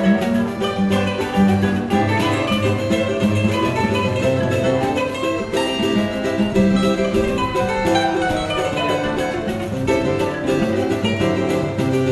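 A choro ensemble playing an instrumental piece on plucked strings, guitar with a moving bass line under a melody, with a steady rhythmic pulse.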